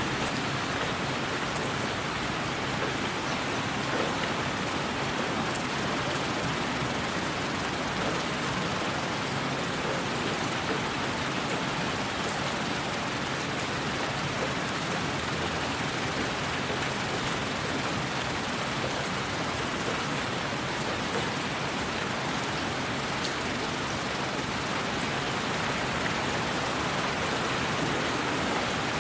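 Steady white noise: an even, unbroken hiss much like steady rain, with faint scattered ticks in the highs.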